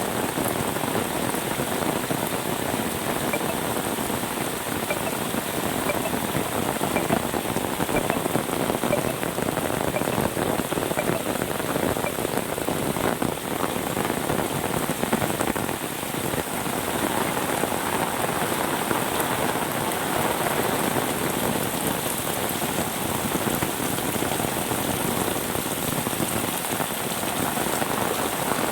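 Steady rain falling and pattering on surfaces, an even dense hiss with fine droplet patter. Faint small high ticks come and go in the first half.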